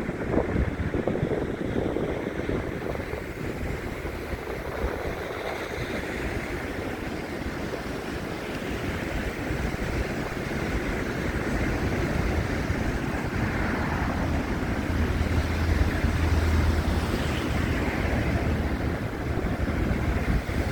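Wind buffeting a phone's microphone in a snowstorm, a continuous rushing noise with a heavy low rumble that swells about three quarters of the way through.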